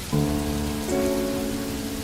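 Steady rain hiss with soft instrumental music over it: held notes, a new one entering just after the start and another about a second in.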